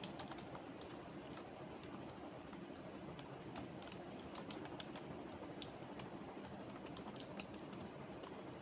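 Typing on a computer keyboard: irregular keystrokes, a few a second, which stop about three-quarters of the way through, over a steady low room hum.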